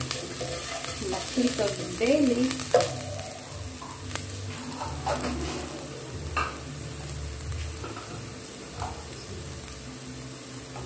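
Chopped onions sizzling in hot oil in a nonstick frying pan, stirred with a wooden spoon, loudest about two seconds in, then frying on steadily with a few sharp ticks.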